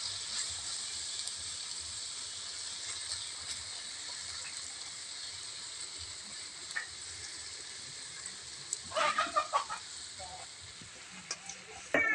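Rice vermicelli frying in oil in a metal pan: a steady, light sizzle. A few short, high calls break in about nine seconds in and again at the very end.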